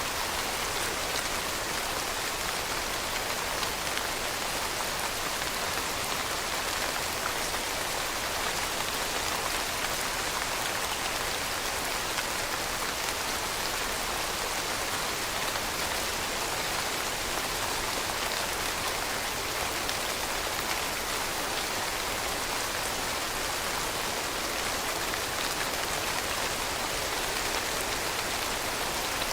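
Steady rain falling and pattering on surfaces, an even hiss of many drops with no thunder.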